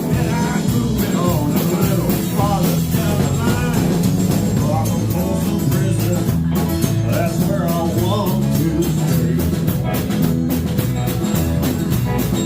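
Live band playing yacht rock, with a steady drum beat, guitar and singing.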